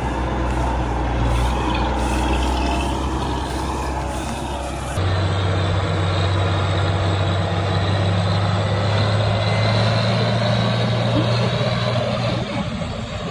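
Combine harvester's diesel engine running steadily, a loud continuous drone that changes abruptly in tone about five seconds in.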